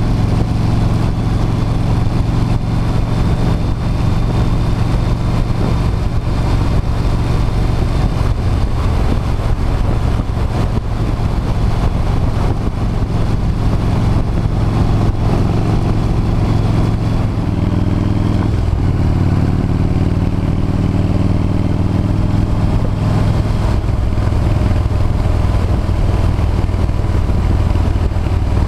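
V-twin cruiser motorcycle engine running at road speed, a steady low engine note whose pitch shifts a couple of times past the middle as the throttle or gear changes.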